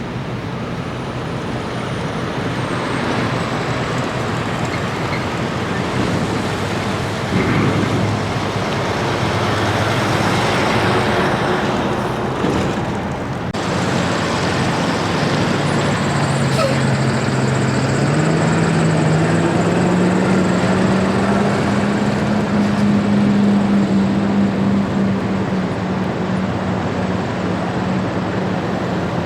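Heavy truck traffic: big rigs go by with a steady rush of tyre and road noise. The noise breaks off abruptly about halfway through, then a truck's diesel engine note climbs in pitch as it accelerates and holds steady near the end.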